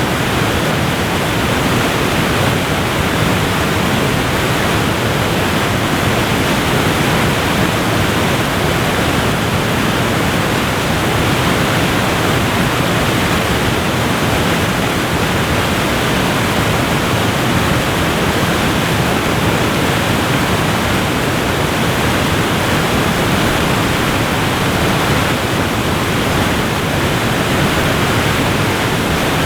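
Waterfall rushing: a steady, even noise of falling water with no breaks or changes.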